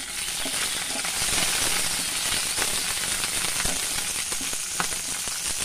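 Slit green chillies sizzling in hot oil with fenugreek and fennel seeds in a non-stick kadai, stirred with a spatula. A steady hiss with a few sharp ticks scattered through it.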